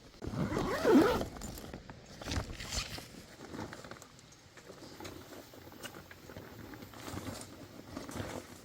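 A zipper-like rasp about a second in as camping gear is unpacked, followed by intermittent rustling and light knocks of fabric and gear being handled.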